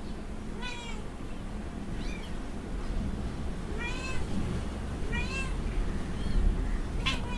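Kittens mewing: about six short, high-pitched calls, roughly a second apart, each rising and then falling in pitch.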